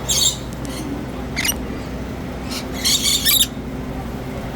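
Birds calling in short, shrill bursts: one at the start, a brief one about a second and a half in, and a longer cluster around three seconds in. A steady low hum runs underneath.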